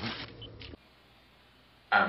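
Near silence: a voice trails off at the start, then only faint room tone for about a second before speech resumes at the very end.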